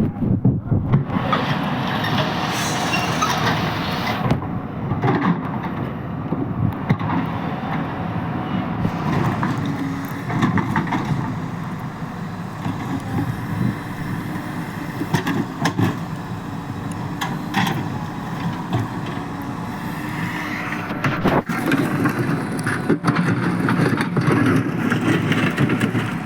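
Heavy machinery running: an excavator's diesel engine working under load, with scattered clanks and knocks.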